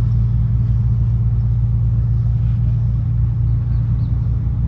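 A motor yacht's twin inboard engines idling, a steady low rumble with a faint regular pulse, as the boat is manoeuvred at low speed.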